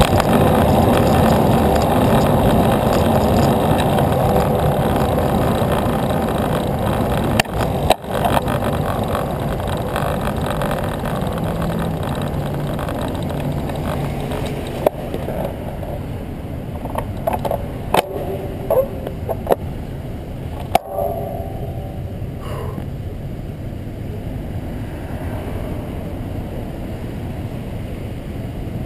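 Steady rush of wind and rolling road noise from a moving bicycle, easing off slowly, broken by several sharp clicks and knocks, the first two about 7 to 8 seconds in and a cluster between about 15 and 21 seconds in.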